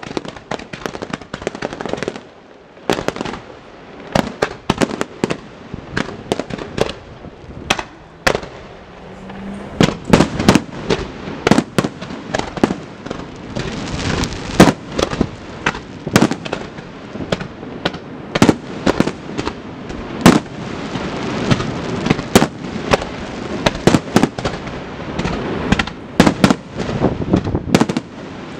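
Fireworks finale barrage: aerial shells bursting in rapid succession, dozens of sharp bangs over continuous crackling. The bangs are sparser for the first several seconds, then come thick and fast from about ten seconds in.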